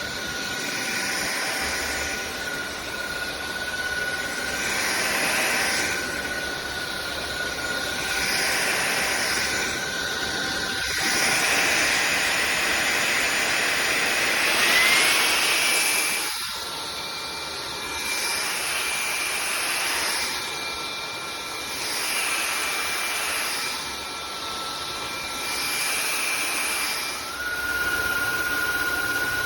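Cordless stick vacuum cleaner running, its motor giving a steady high whine over a rush of suction that swells and fades about every two seconds. About halfway through the rush grows louder and the whine glides up to a higher pitch.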